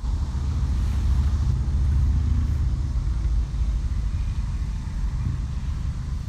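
A low, steady rumble that comes in suddenly at the start.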